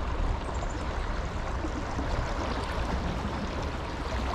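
Creek water flowing steadily over rocks, an even rushing sound.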